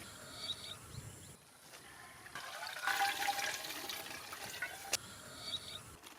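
Water running and splashing, louder in the middle, with a sharp click about five seconds in.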